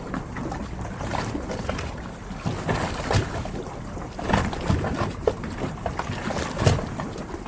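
Harbour water lapping and slapping against the hulls of moored yachts: a steady splashing with irregular slaps and low thuds, the strongest near the end.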